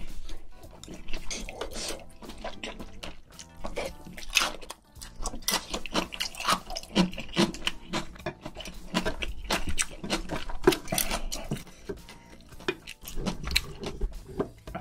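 Close-miked chewing and wet mouth sounds of a person eating, in many short, irregular clicks and smacks.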